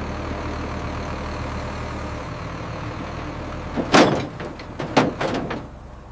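A heavy vehicle engine running steadily. Partway through come two loud knocks about a second apart, as of a heavy metal part being set down, and then the engine noise drops away.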